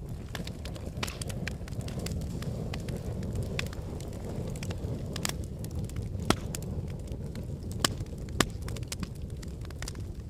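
Wood logs burning in a fireplace: a steady low rush of flame under constant crackling, with three louder pops about six, eight and eight and a half seconds in.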